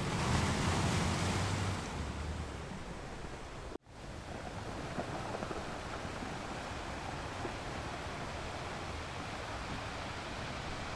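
Ocean waves washing onto a shore. A wave swells loudest in the first two seconds and then eases. The sound cuts out for an instant just under four seconds in, then steady surf resumes.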